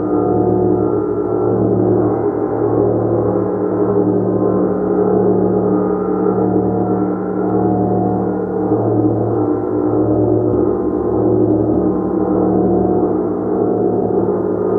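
A large gong played continuously: a dense, sustained wash of many overlapping ringing tones, with a low hum that swells and fades every second or so.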